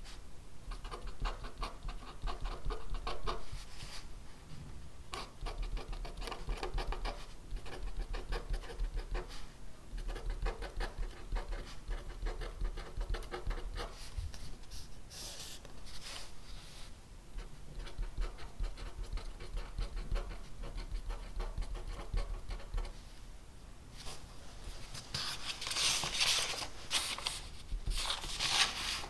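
Pen writing on paper in stretches of quick, scratchy strokes a few seconds long, with short pauses between them. A louder, brighter stretch of scratching comes near the end.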